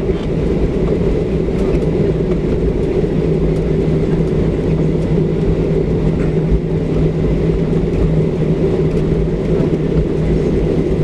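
Steady cabin noise inside a Boeing 737-700 on the ground after landing. It is a constant rumble with a low, even hum from the idling CFM56-7B engines and the cabin air system.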